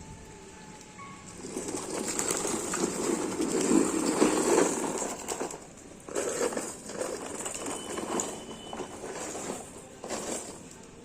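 Pet parrot's calls and movement, coming and going irregularly, loudest in the first half.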